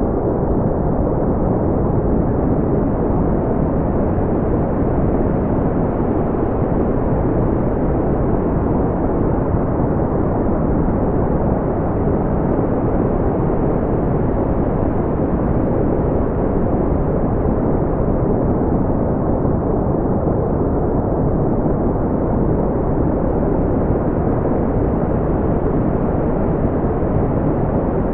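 Steady, loud synthetic brown noise: an even, deep rushing hiss with most of its weight in the low end and the highs smoothed away, unchanging throughout.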